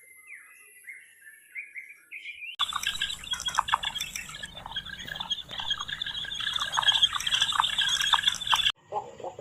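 Birds chirping: faint separate chirps at first, then about two and a half seconds in a sudden change to a loud, dense chorus of rapid chirps that cuts off abruptly near the end.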